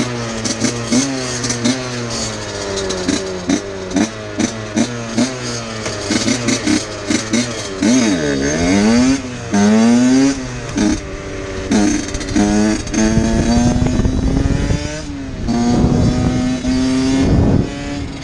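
Two-stroke HM dirt bike engine being ridden. It gives quick throttle blips in the first few seconds, then revs up with rising pitch through gear changes, and settles into a steadier note in the second half.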